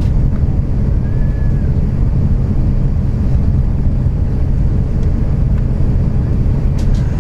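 Steady low rumble inside an Airbus A350's passenger cabin as the airliner taxis, with a faint steady hum over it and a couple of small clicks near the end.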